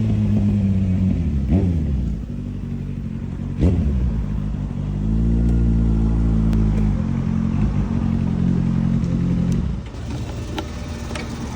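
Kawasaki Z800's inline-four engine running, with two quick throttle blips about one and a half and three and a half seconds in. It then runs louder and steady for about four seconds before dropping back near the end.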